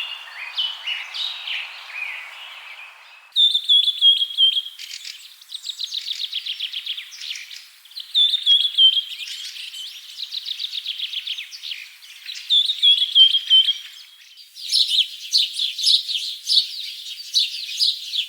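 Small birds chirping and singing in a run of spliced recordings. A phrase made of a high falling whistle and then a fast trill repeats about every four to five seconds through the middle, and a dense run of quick chirps follows near the end.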